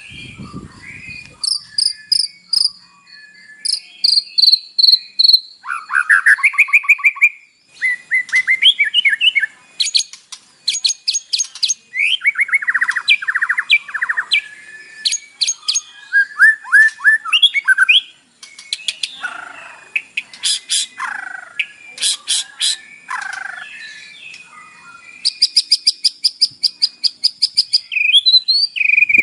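White-rumped shama (murai batu) singing a long, varied song full of mimicked 'isian' phrases: quick whistled sweeps, chirps and fast rattling runs of repeated notes, one run of rapid repeated notes lasting about three seconds near the end.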